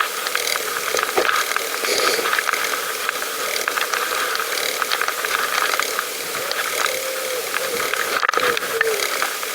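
Bicycle freewheel hub clicking in a rapid, steady run of ticks as the bike rolls along.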